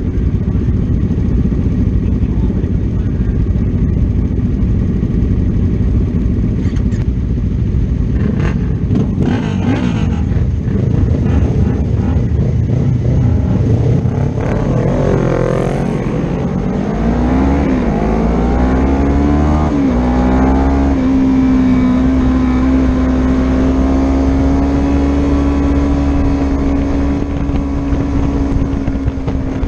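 Racing motorcycle engine under way with heavy wind rush. About halfway through it revs up through two gear changes, the pitch climbing and dropping twice, then holds one steady high note.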